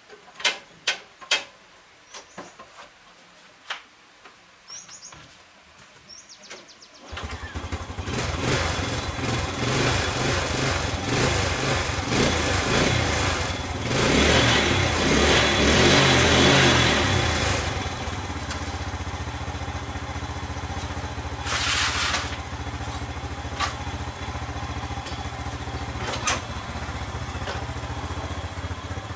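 Restored motorcycle engine starting about seven seconds in after several clicks and knocks, revving for a few seconds, then settling into a steady idle.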